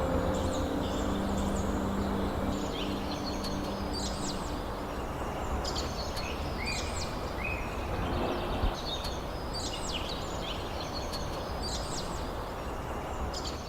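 Small birds singing in short repeated phrases of chirps every couple of seconds, over a steady rushing background. Held tones that fade out about four seconds in, and a single knock near the middle.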